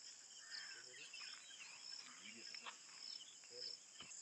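Faint, steady high-pitched insect chorus, with scattered faint chirps over it.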